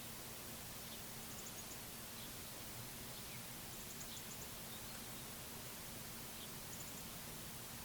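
Faint songbird chirps in the yard: quick high runs of three to five notes every second or two, with scattered short chip notes, over a steady outdoor hiss.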